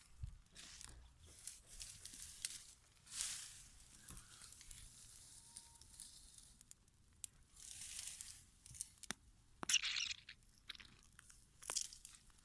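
Dry grass rustling and crackling in irregular faint bursts, with a few sharp snaps, the loudest about ten seconds in.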